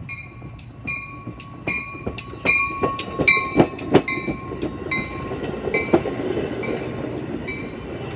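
Metra commuter train passing close by, its wheels clacking with a metallic ring about twice a second over a steady rumble. The clacks are loudest about three to four seconds in, then ease to a steady run.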